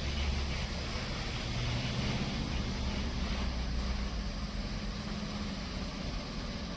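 A motor vehicle engine running, a steady low drone that eases off after about four seconds, over a constant hiss.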